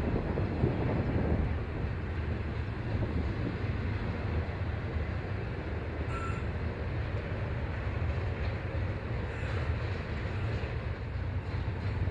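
Train rolling past: a steady low rumble of wheels on rail, with a brief faint high tone about six seconds in.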